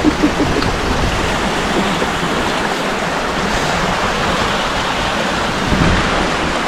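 Steady rush of a fast-flowing, rough river, mixed with wind.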